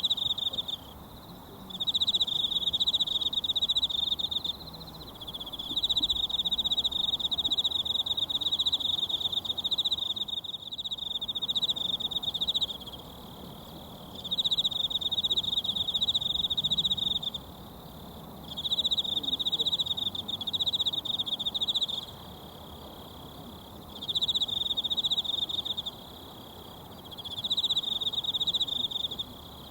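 An insect trilling at a high, steady pitch in bouts of a few seconds, each broken by a pause of a second or two, over the faint even rush of a mountain stream.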